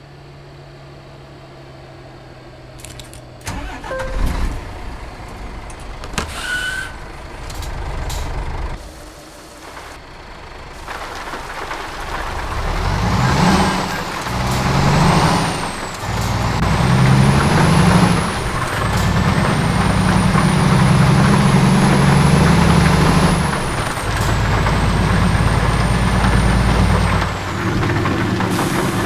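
Scania G-series heavy truck's diesel engine pulling away under a heavy low-loader load and working up through the gears. A high whistle rises and falls over the engine, dropping away briefly at each gear change. The first few seconds are quieter, with a few clicks and knocks.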